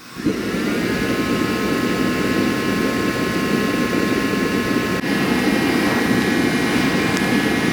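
Hitachi EX55UR mini excavator's diesel engine running steadily while it warms up in the cold, with a faint steady whine over the engine noise.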